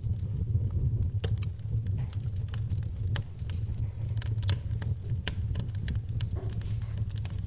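Wood fire in a fireplace crackling, with many irregular sharp pops, over a steady low rumble and the patter of rain.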